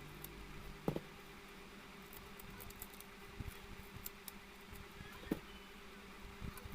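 A steady low hum with two light knocks, one about a second in and one near the end, and scattered small clicks, like utensils or dishes being handled while food is prepared.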